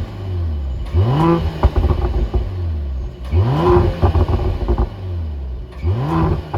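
Mercedes-AMG GLE 53's 3.0-litre inline-six with Performance Exhaust revved three times, each rev rising quickly and then falling back with crackling and popping from the exhaust.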